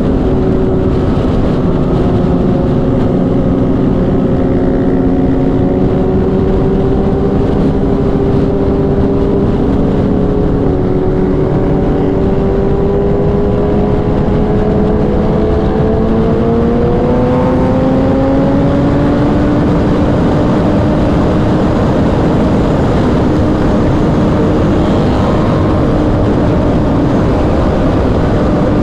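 Kawasaki inline-four sportbike engine running under steady highway load at speed, its pitch climbing gradually partway through and then holding, with heavy wind rush over it.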